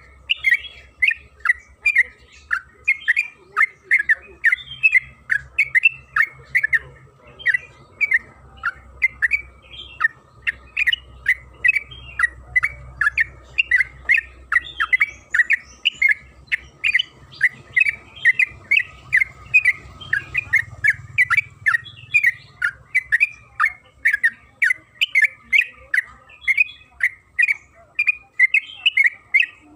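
Yellow-vented bulbul (trucukan) singing an unbroken run of short, rapid chattering notes, about three or four a second, with no pauses.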